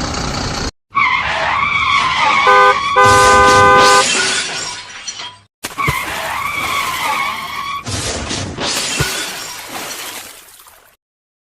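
Vehicle sound effects: tyre-screech skid sounds with a wavering pitch, broken about three seconds in by a loud, steady multi-tone blast. After a brief cut the screeching returns and fades out near the end.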